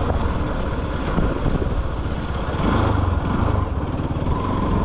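Motorcycle engine running under way, a steady low rumble mixed with road and wind noise.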